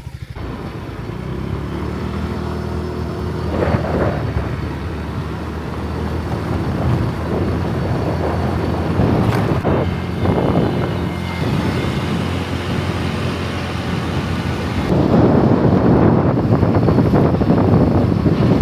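Rented moped's small engine running while riding, with wind buffeting the microphone, the wind loudest near the end.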